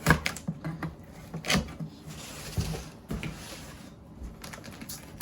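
A large cardboard shipping box being opened: sharp knocks and scrapes of the cardboard being handled, with a stretch of rustling about two seconds in.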